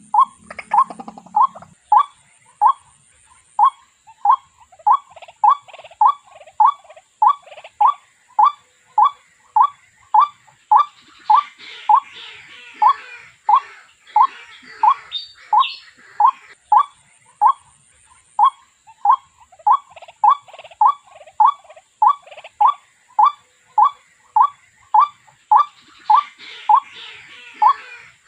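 A bird calling one short, identical note over and over, about one and a half times a second, with fainter higher twittering behind it at times.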